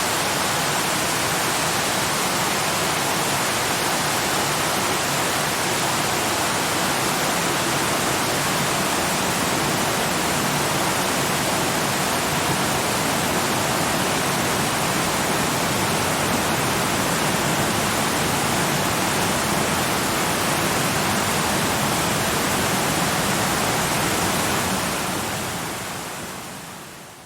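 Waterfall rushing steadily, an even wash of falling water, fading out over the last few seconds.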